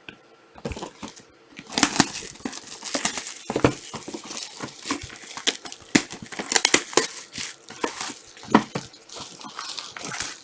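Plastic shrink wrap being torn open and crumpled off sealed trading-card boxes, a dense, irregular crackling that starts about a second in.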